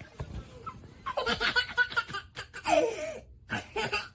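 A person laughing, in three bursts over a few seconds.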